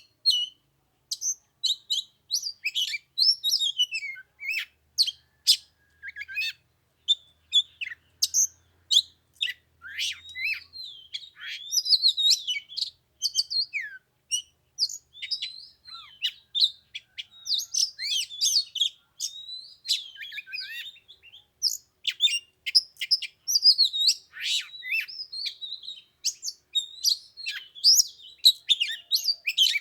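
Oriental magpie-robin singing: a continuous, varied song of quick whistles and chirps with hardly a pause.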